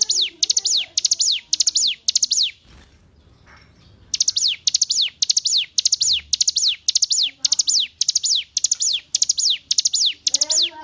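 Ciblek gunung (hill prinia) singing: a loud, even series of high notes, each falling steeply in pitch, repeated about two or three times a second. The series breaks off for about a second and a half soon after the start, then resumes.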